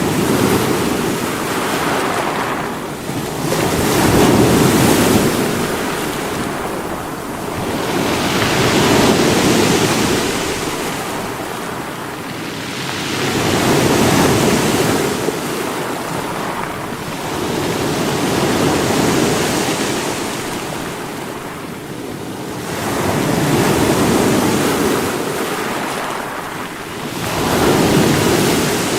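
Sea waves breaking against rocks, each wave surging in and washing back, about every five seconds.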